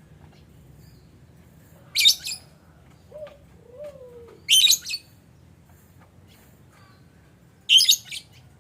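Lovebirds giving three loud, shrill, grating chirps, each under half a second long, about two to three seconds apart.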